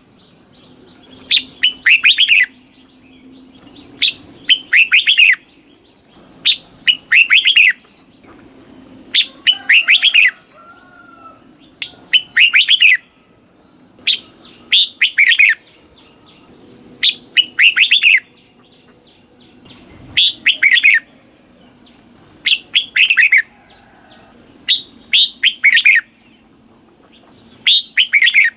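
Red-whiskered bulbul singing: a short, loud, warbled phrase of quick falling notes, repeated over and over about every two seconds.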